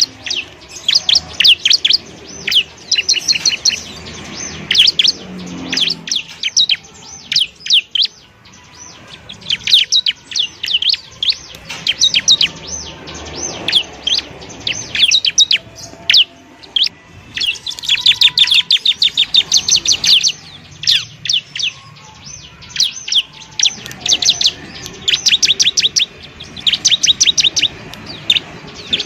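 Bar-winged prinia (ciblek) song: rapid runs of sharp, high chirping notes in bursts of a second or two, repeated over and over with short gaps.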